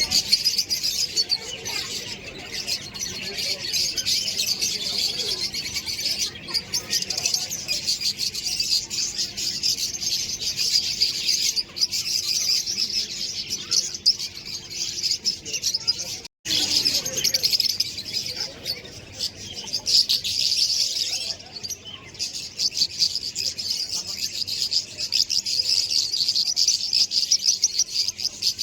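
Many small birds chirping at once in a dense, continuous chorus of rapid high chirps. It breaks off for an instant a little past halfway through.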